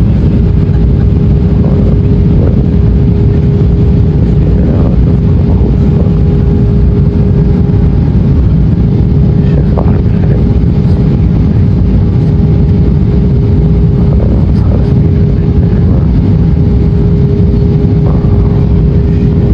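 Airliner cabin noise: a loud, steady engine and airflow rumble with a constant hum tone running through it.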